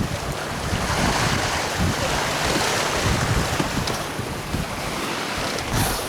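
Wind buffeting the microphone in uneven gusts over the steady rush of water past a sailing smack's hull as she sails along.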